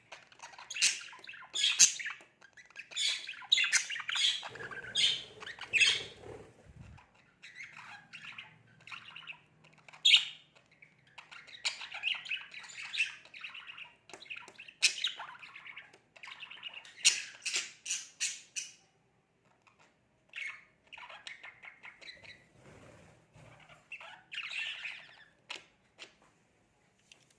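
Budgerigar chattering and squawking in rapid runs of short, high chirps, with brief pauses about two-thirds of the way through and near the end.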